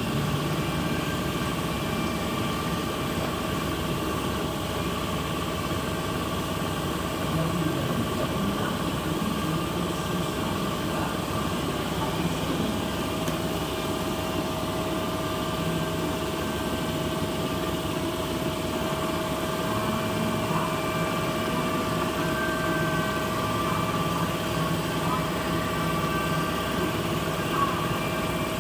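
Kiddie train ride running, its motor giving a steady hum with a constant drone, and faint voices in the background.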